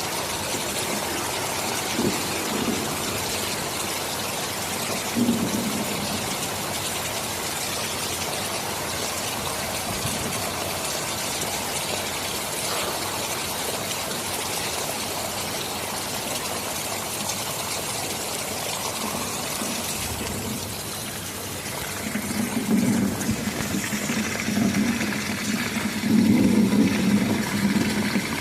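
Steady heavy rain, an even hiss of downpour, with low rolls of distant thunder: brief ones in the first few seconds, then a longer, louder rumble building over the last several seconds.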